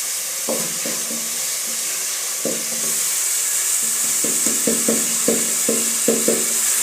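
Onions and garlic sizzling as they fry in a pot, with a spoon stirring and knocking against the pot; the knocks come faster, about two a second, in the second half.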